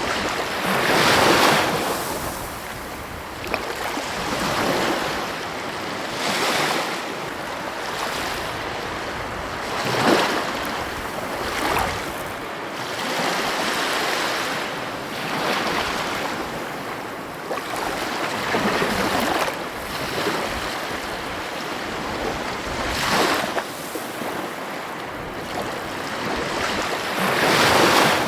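Ocean waves breaking on a shore: a continuous hiss of surf that swells into a crash every few seconds at uneven intervals. The loudest breaks come about a second in, near the middle and near the end.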